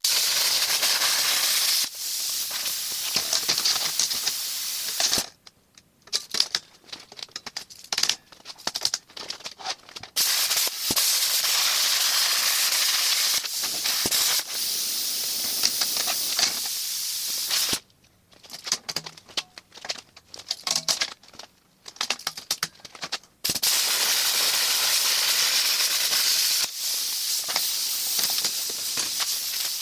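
A metal-cutting torch hissing steadily in three long runs while cutting steel. Between the runs come quieter, irregular crackles and clicks.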